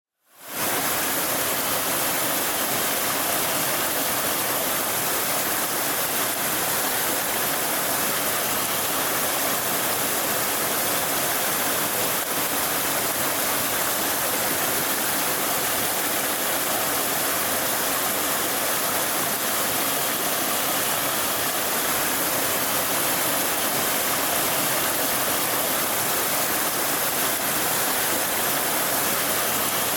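Mountain valley stream, its water rushing steadily; the sound rises in quickly at the very start.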